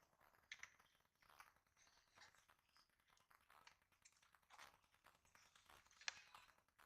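Faint clicks and rustling of hands fitting a plastic motorcycle headlight housing, with one sharper click about six seconds in.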